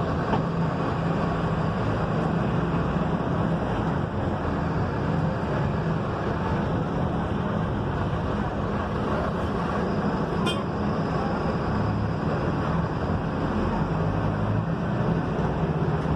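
Mercedes-Benz OF-1721 bus's front-mounted diesel engine running with a steady low drone. There is one brief click about ten seconds in.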